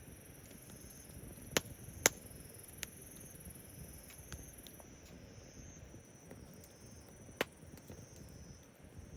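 Wood fire crackling with a low steady hiss, and sharp pops: three in the first three seconds and one more about seven seconds in.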